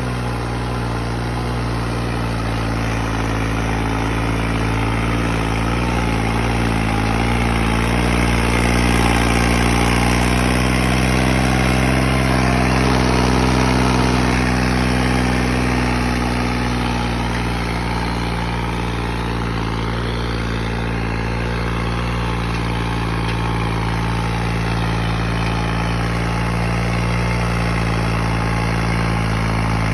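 New Holland tractor's diesel engine running steadily, pulling a heavy disc harrow of five gangs with 90 discs; the engine note rises a little partway through and then settles again.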